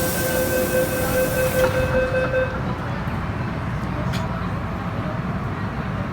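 MTR M-Train door-closing warning tone sounding with a hiss, cutting off about two and a half seconds in, then a short knock about four seconds in, over the steady rumble of the train.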